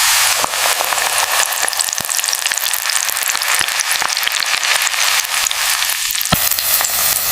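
Spring rolls deep-frying in hot oil: a steady sizzle with fine crackling and a few sharp pops, the loudest about six seconds in.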